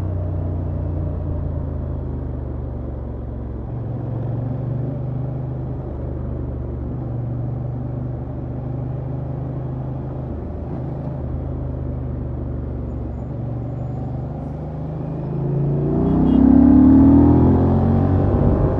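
Honda XL750 Transalp's 755 cc parallel-twin engine through its stock exhaust, pulling at steady low revs with small shifts in throttle. About sixteen seconds in it revs up with a rising pitch and gets louder, then eases off near the end.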